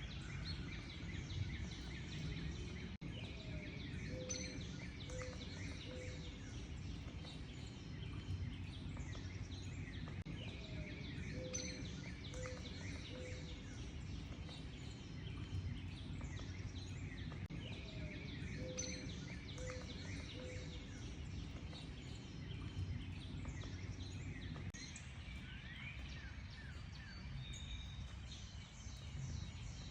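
Many songbirds chirping and trilling together over a steady low background rumble, with a lower call of a rising note and a few short notes that repeats about every seven seconds.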